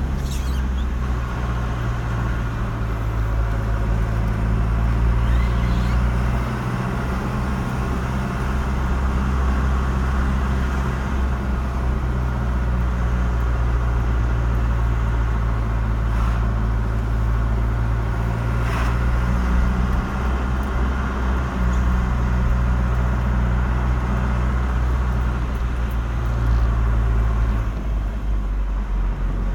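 Car driving along a road: steady low engine hum and tyre noise, the engine note shifting a few times.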